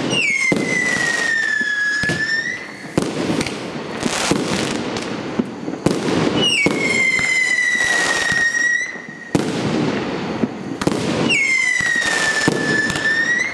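PKU378 'Borodino – Russian General' fireworks battery firing a rapid string of shots and crackles. Three long whistles come through, near the start, about halfway and near the end; each one drops quickly in pitch and then holds steady for about two seconds.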